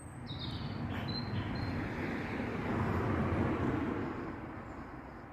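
A road vehicle passing, its tyre and engine noise swelling to a peak about three seconds in and then fading away. A bird chirps briefly near the start.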